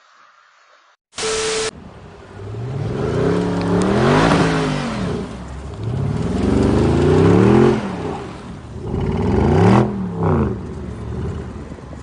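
A short loud blast about a second in, then a motor vehicle engine revving three times, its pitch rising and falling with each rev.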